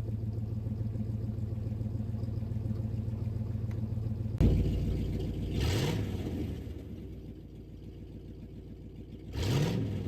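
Chevy Tahoe V8 exhaust through a MagnaFlow dual-inlet muffler. It runs steadily for about four seconds, then suddenly gets louder as the engine revs up in quick rising sweeps, eases off, and revs up again near the end.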